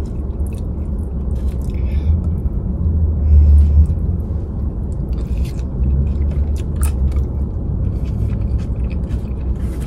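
A person chewing a forkful of burrito bowl, with short clicks and scrapes of a fork in the bowl. A steady low rumble runs underneath and swells about three to four seconds in.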